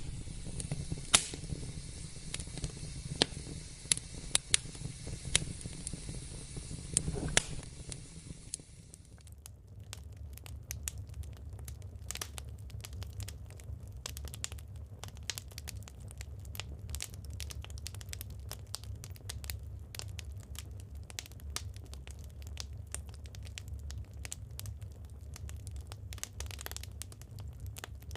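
Wood fire burning, crackling with scattered sharp pops of the burning logs. About a third of the way in the sound changes to a denser, finer crackling over a low rumble of the flames.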